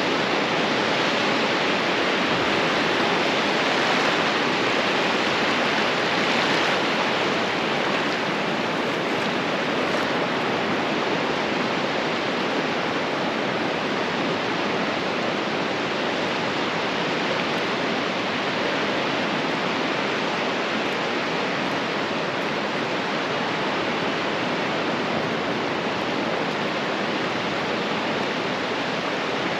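Ocean surf washing onto a beach, a steady rushing hiss of breaking waves that swells slightly a few seconds in.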